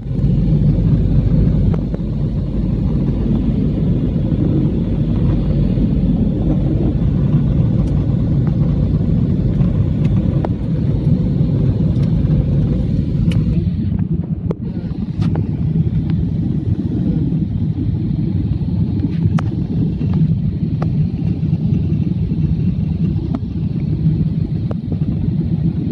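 Steady low rumble inside a passenger airplane's cabin on landing, the noise of engines and airframe, with a few faint scattered clicks. About halfway through the higher hiss drops away while the rumble continues.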